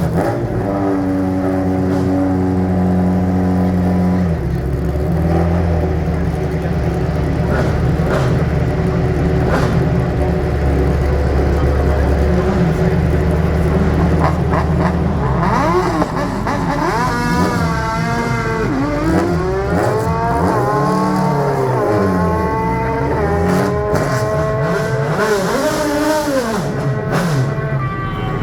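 Race car engines: a steady low drone for the first part, then from about halfway on, engines revving up and down through repeated gear changes as cars accelerate hard.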